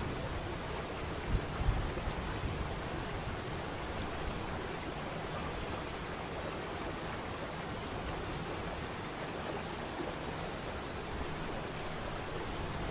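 Waterfall: a steady, even rush of falling water, with two brief low bumps about a second and a half in.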